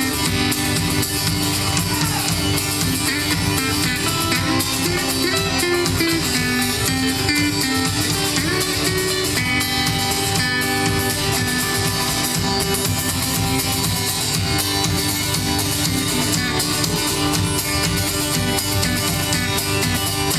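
Live band playing an instrumental passage, led by guitar over a steady bass and rhythm, with no singing.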